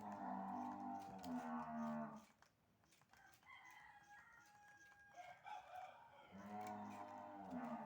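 Two long, drawn-out animal calls about six seconds apart, with short chirps and whistles between them.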